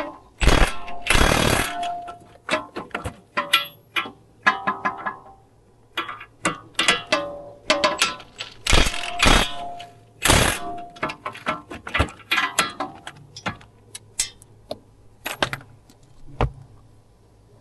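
Metal hand tools clinking and knocking against steel steering parts: a string of irregular sharp clicks and taps, some with a short metallic ring, during work on the rack-and-pinion steering.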